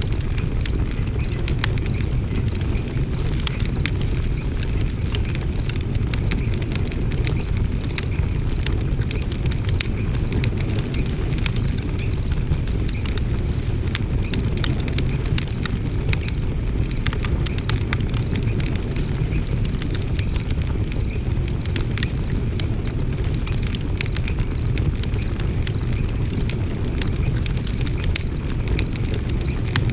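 Wood fire burning in a fire stand: a steady low rush with frequent small crackles and pops. A high, evenly pulsing insect chirp runs underneath.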